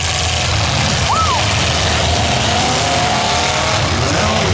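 Demolition derby cars' engines running and revving together, a loud steady drone. About a second in there is a short squeal that rises and falls, and a wavering whine follows midway through.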